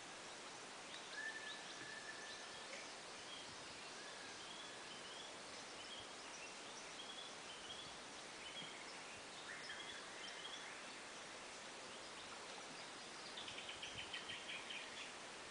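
Birds calling in short chirps and whistles over a faint steady hiss, with one held whistle about a second in and a quick run of rapid repeated notes near the end.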